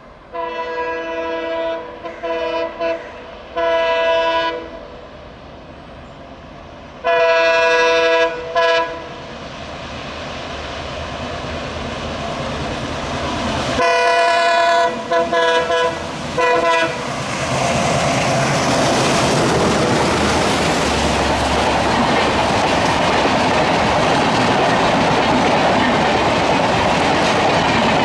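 Twin ALCO-engined WDM3A diesel locomotives at speed, sounding their horns in three groups of blasts as they approach, long and short. The engines grow louder, and from about two-thirds of the way in the train passes close by: a loud, steady rush of the coaches with wheel clickety-clack over the rail joints.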